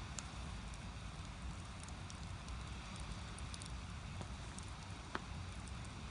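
Firewood burning in a Korean agungi firebox: a steady low rush of flame with scattered small crackles and one sharper pop about five seconds in.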